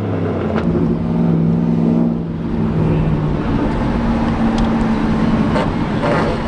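Straight-piped Aston Martin Vantage exhaust running at a steady cruise, its drone holding a constant pitch over loud road and wind noise.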